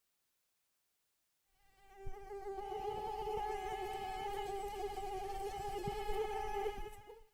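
Female mosquito's wingbeat whine, a steady high buzz with a slight waver. It fades in about one and a half seconds in and cuts off just before the end.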